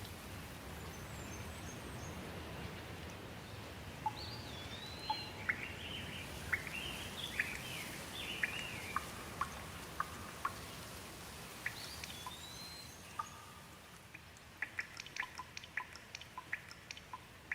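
Steady light rain with a small bird calling in short chirps and whistles through the middle. Sharp single drips tick throughout, and near the end the rain hiss thins and the drips come quicker and closer together.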